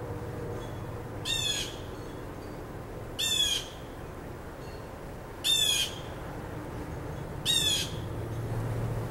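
A bird giving four short, harsh calls, evenly spaced about two seconds apart, over a steady low outdoor rumble.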